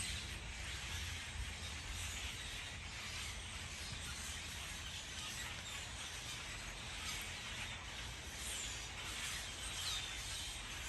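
Outdoor ambience: a steady background hiss with a low rumble, and a couple of faint bird chirps near the end.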